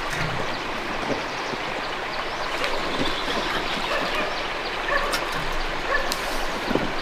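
Stream water flowing steadily, a continuous rushing noise.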